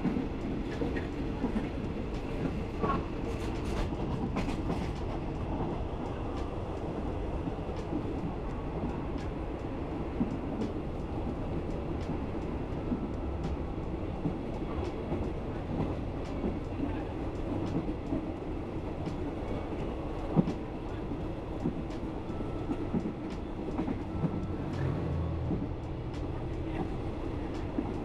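Passenger train running, heard from inside the carriage: a steady rumble of wheels on the rails with scattered sharp clicks.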